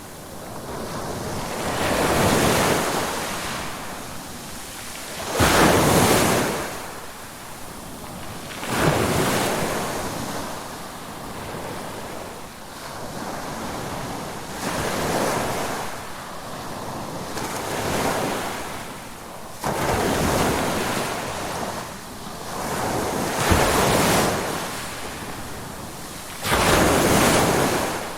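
Ocean waves breaking on a shore, a new surge of surf swelling up every few seconds, some with a sudden crash, and the hiss of water washing back between them.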